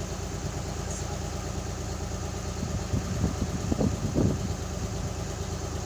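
Boat engine running steadily with a low hum, with a few brief louder sounds in the middle.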